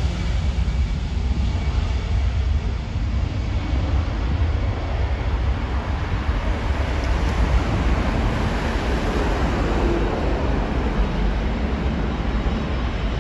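Steady low rumble of an aircraft's engines, with no distinct events.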